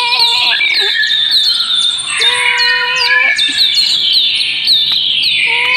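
Birds chirping busily: a constant run of short, high, falling chirps. A longer steady call of about a second comes at the start, again about two seconds in, and near the end.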